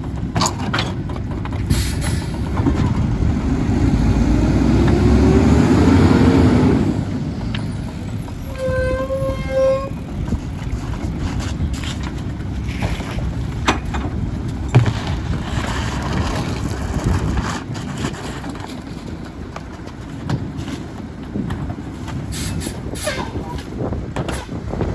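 Mack LE garbage truck's engine running under the load of the Heil packer as it compacts trash. The engine revs up for a few seconds and then settles. A short electronic beep sounds about nine seconds in, and knocks and clunks come from the load.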